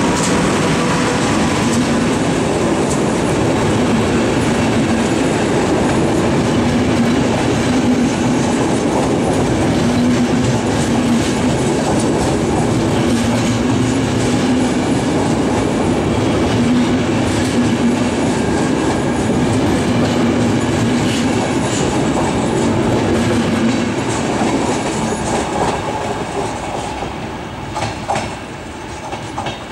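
Passenger train hauled by an FS E444 electric locomotive pulling out and passing close by: a steady rumble of locomotive and coaches with wheels clacking over rail joints. It fades over the last few seconds as the last coach pulls away.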